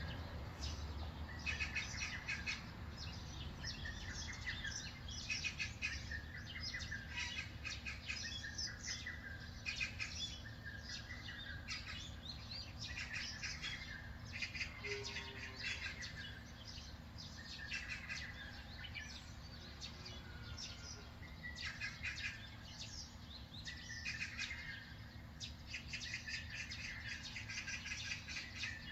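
Several birds chirping and singing in short, overlapping calls throughout, over a low steady rumble.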